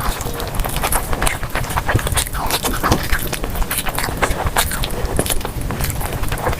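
Close-miked eating: chewing and mouth sounds, a dense irregular run of short clicks.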